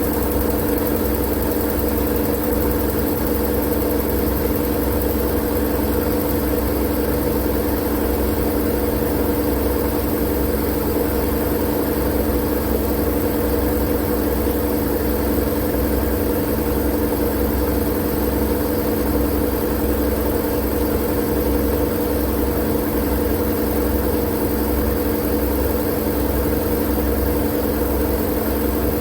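Steady white-noise track for lulling babies to sleep: a constant, unchanging drone of low rumble, hum and hiss, like a running machine.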